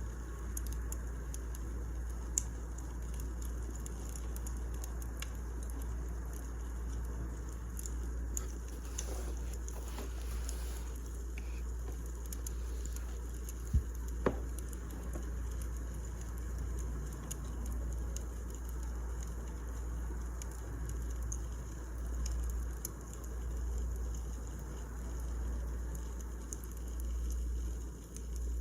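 Wood fire burning, crackling steadily with scattered small snaps and a few sharper pops, over a low rumble.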